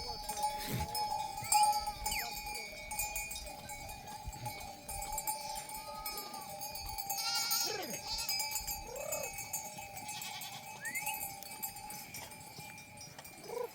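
Bells on a grazing flock of sheep ringing steadily, with sheep bleating now and then, around the middle and near the end.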